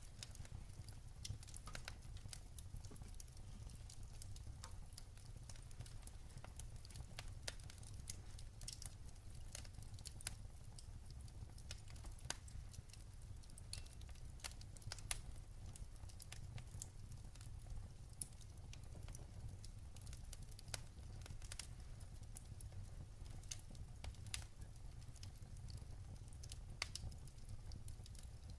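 Firewood burning in a fireplace: irregular crackles and pops over a steady low rumble.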